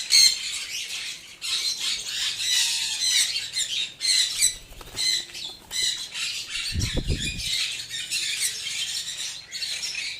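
Conures squawking, with many short, harsh calls following one another throughout. About seven seconds in there is a brief low thud.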